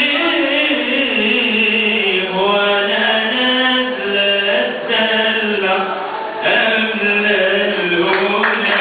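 A solo male voice singing a long, melismatic Egyptian song line in Arabic, with held notes that bend in pitch.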